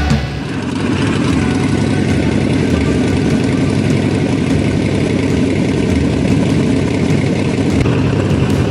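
Harley-Davidson Sportster 48's V-twin engine running steadily.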